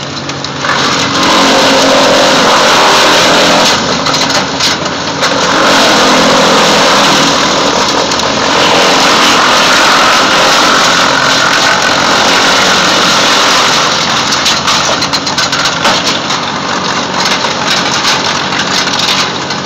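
Wood chipper running, its engine loaded as it loudly shreds material from about a second in, with brief dips, easing near the end.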